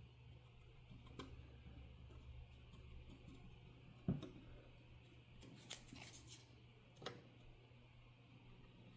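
Near silence over a steady low hum, broken by a few small clicks, a soft knock about four seconds in, and a brief clatter of light clicks a little later.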